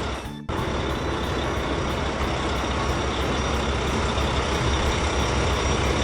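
Truck engine running steadily, a rumbling, noisy motor sound with a brief dropout about half a second in.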